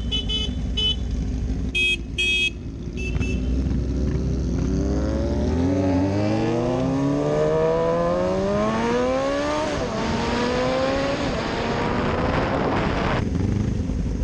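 Motorcycle engine idling low, then accelerating away with its note rising steadily, dropping at a gear change about ten seconds in and climbing again before settling. A few short high beeps sound in the first three seconds.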